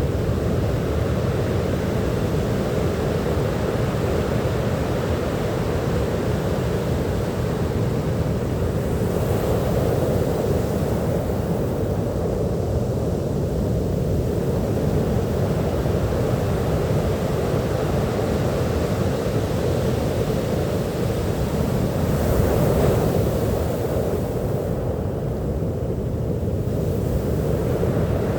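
Sea surf washing steadily onto a beach, a continuous deep rush of water that swells louder twice, about a third of the way in and again near the end, as waves break.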